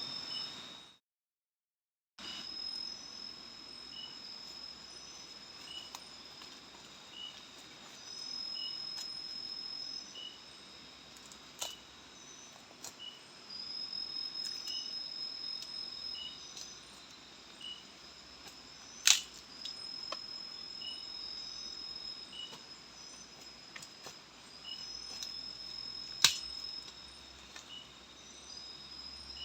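Night forest insects, crickets or katydids, trilling in steady high tones with a chirp repeating about once a second. A few sharp clicks cut through, two of them loud, about two-thirds of the way in and near the end, and the sound drops out completely for about a second near the start.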